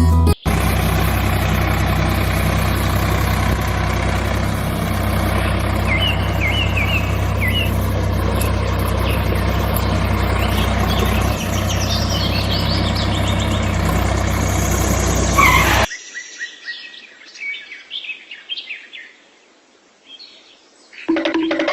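Birds chirping over a loud, steady hum with a strong low drone. The hum cuts off suddenly about 16 seconds in, leaving only the birdsong.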